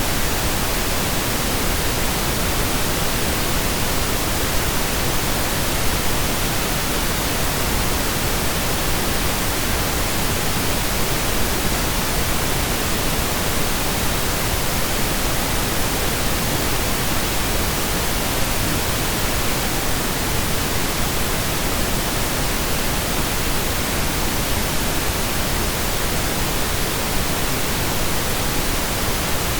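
Steady, even pink noise, digitally synthesized, with no change or events.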